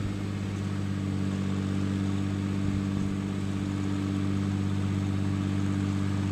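John Deere 4020 tractor engine running at a steady speed, with an even drone that does not rise or fall.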